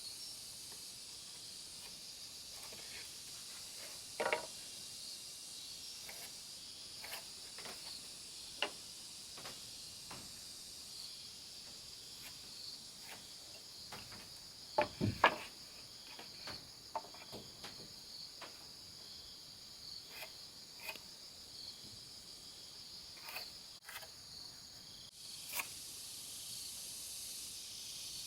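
Insects chirring steadily and high, with scattered sharp knocks and taps. The loudest knocks come in a quick cluster about halfway through.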